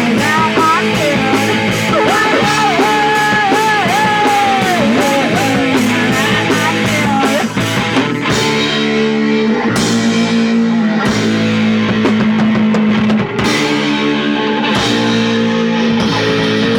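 Punk rock music with electric guitar and drums: a bending melodic guitar line over a steady cymbal beat for the first half, then held chords with the drums briefly dropping out.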